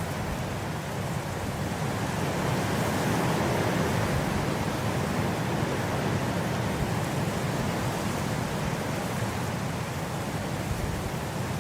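Blizzard wind blowing in a steady, dense rush that swells slightly a couple of seconds in.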